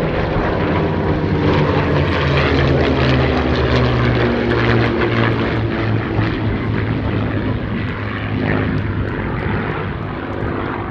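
Piston warbird fighters in a low formation pass: a P-47 Thunderbolt's Pratt & Whitney R-2800 radial and two P-51 Mustangs' Merlin V12s. The engine note is loud at first and then drops steadily in pitch as the formation goes by, fading a little near the end.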